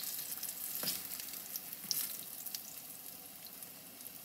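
Apple fritters deep-frying in a pot of hot oil: a steady sizzle, with a few light clicks, the clearest about a second in.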